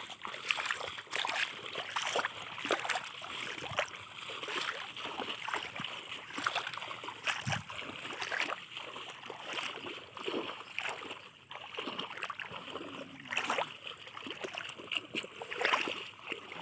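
River water splashing and sloshing in a continual irregular patter of small splashes.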